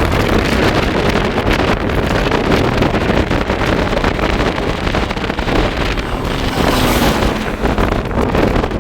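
Strong wind rushing over the microphone while on the move, with the steady noise of a vehicle underneath.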